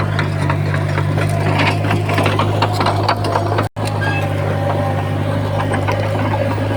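Komatsu bulldozer's diesel engine running with a steady low drone, over irregular clanking and rattling. The sound drops out for an instant a little past halfway.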